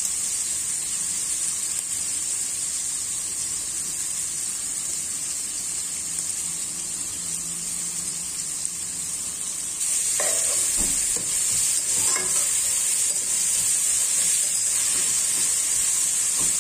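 Onions, carrot strips and raisins sizzling in hot oil in a pot, with ginger-garlic paste added to them. About ten seconds in the sizzling gets louder and a metal spatula scrapes and stirs through the pot.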